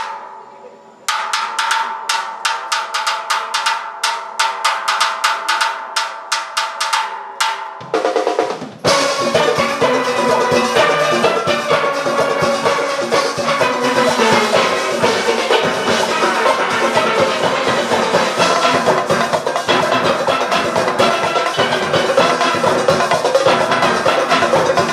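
Large steelband opening its piece: a steady clicking beat over a few held pan tones, then about nine seconds in the full steel orchestra comes in with its drum-kit and percussion rhythm section and plays on.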